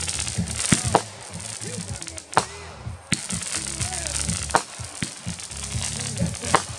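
Consumer aerial fireworks going off: about six sharp bangs spread irregularly over several seconds, with hiss between them.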